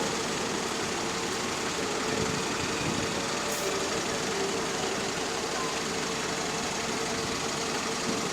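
Bus engine running steadily, with a thin steady whine over it.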